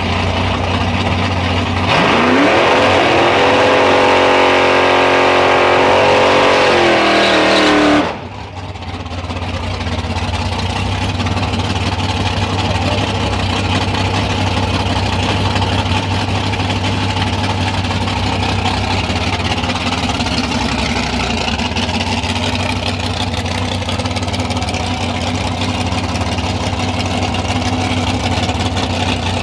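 Car engine revving up and held at high revs for about six seconds, then cutting off suddenly, followed by a steady engine rumble.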